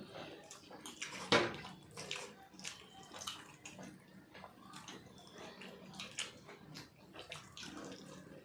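Close eating sounds of biryani being eaten: wet chewing and mouth noises, a dense run of small irregular clicks and smacks, with one sharper click about a second in.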